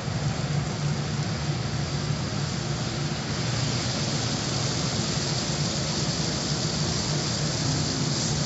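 Automatic car wash equipment running: a steady rushing hiss over a low machine hum, the hiss growing brighter about three seconds in.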